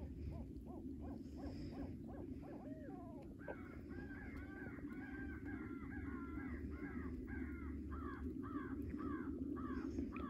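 Crows cawing, many harsh caws overlapping; from a few seconds in, a steady run of caws comes about two a second.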